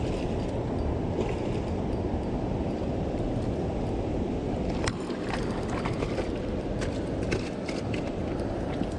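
Steady rush of water pouring over a creek spillway, with scattered light clicks and rustles from about five seconds in.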